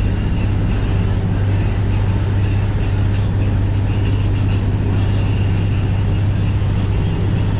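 Boat engine running with a steady low drone under a constant rushing noise.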